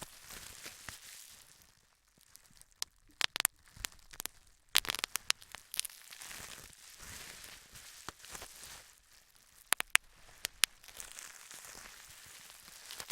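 Bubble wrap being handled and popped: irregular sharp pops, some in quick clusters, over crinkling plastic.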